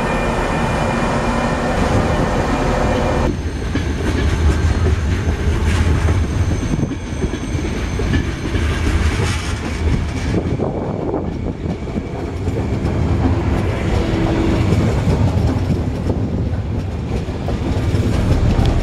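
Coaches of a departing locomotive-hauled passenger train rolling out of the station. After a cut about three seconds in, a Frecciarossa 1000 high-speed electric train pulls away and passes close, with a steady low rumble of wheels on rails.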